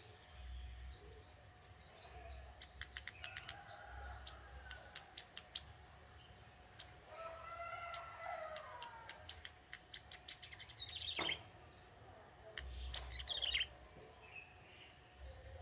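Young male ciblek tebu, a prinia, singing: bursts of rapid high-pitched ticking chips, a lower warbled phrase, and a fast trill that falls in pitch about two-thirds through.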